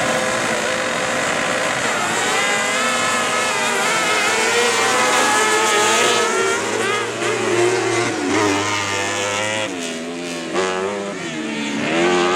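Several kart cross racing engines at high revs, overlapping, their pitch repeatedly rising and dropping as they accelerate and shift.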